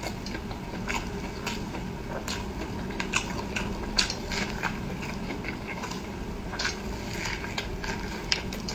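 Close-miked eating: chewing with many irregular, short wet mouth clicks and smacks over a steady low background hum.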